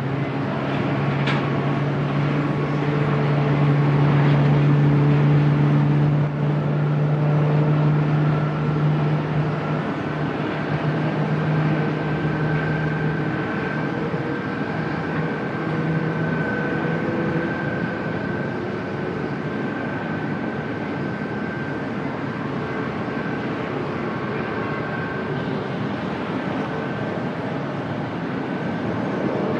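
De Havilland Canada Dash 8-400 turboprop's engines and propellers droning with a steady low hum, strongest for the first dozen seconds and then fading. A steady wash of noise with a faint higher whine continues under it.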